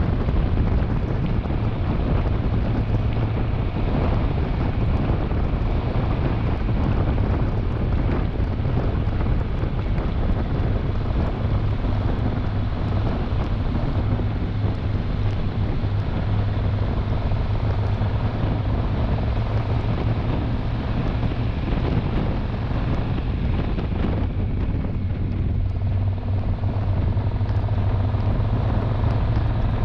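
Triumph Tiger 1200 Rally Explorer's three-cylinder engine running steadily at cruising speed, with heavy wind rush on the microphone.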